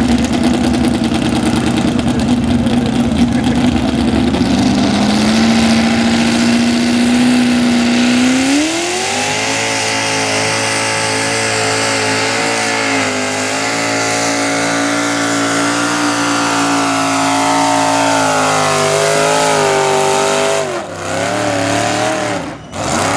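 A two-wheel-drive super stock pulling truck's engine running at high revs under load during a sled pull. The pitch climbs in steps and holds high, then drops off sharply twice near the end as the throttle comes off.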